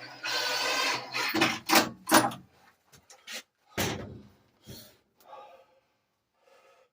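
A string of loud knocks and bangs, several in quick succession about a second and a half in, then a few more spaced out, after a brief steady noise with a low hum.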